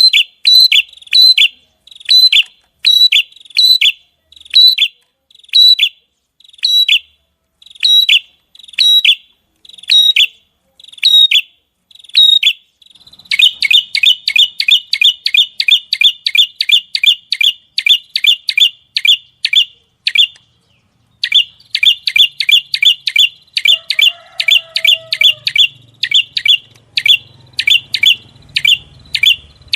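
Small songbird singing, recorded: sharp, high chip notes that drop in pitch, repeated about twice a second. About halfway through it breaks into a fast run of rapid notes, several a second, the 'tembakan' phrase that bird keepers prize, with one brief pause.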